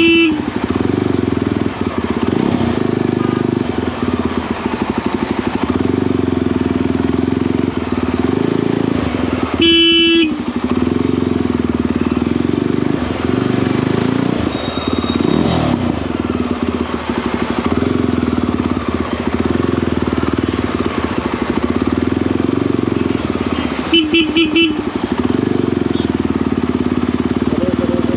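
Motorcycle engine running steadily on the move, with horn honks over it: a short honk at the start, a longer one about ten seconds in, and a quick burst of about four short toots later on.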